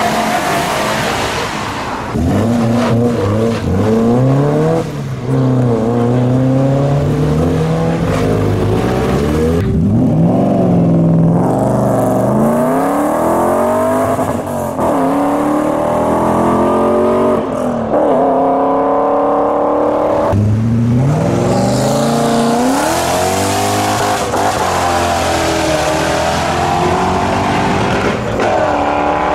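Modified cars accelerating hard one after another. Their engines rev up through the gears, the pitch climbing and then dropping back at each shift, over and over.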